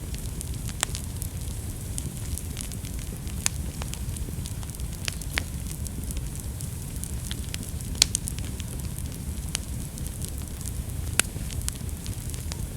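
Wood fire burning in a fireplace with a steady low rumble and frequent sharp crackles and pops, the loudest pop about eight seconds in.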